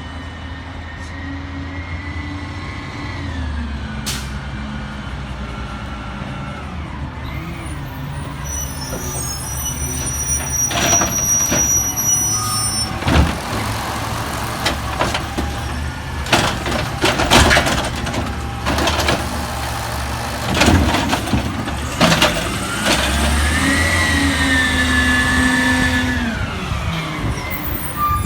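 Peterbilt 320 garbage truck's diesel engine revving up and settling back twice, with a run of loud bangs and clanks through the middle.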